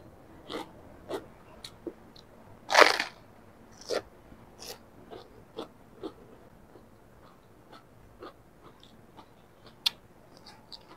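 Raw cabbage leaf crunching as it is bitten and chewed close to a clip-on microphone. One loud crunch comes about three seconds in, followed by a run of smaller crunches that fade, and a sharp click near the end.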